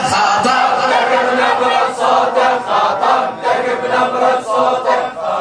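Voices chanting together in unison, a Shia hosa refrain sung in the pause between the reciter's verses.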